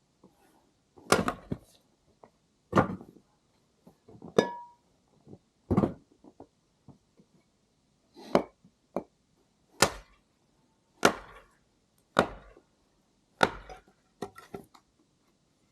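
Firewood being chopped with an axe: about ten sharp wooden strikes at uneven intervals, one every second or so.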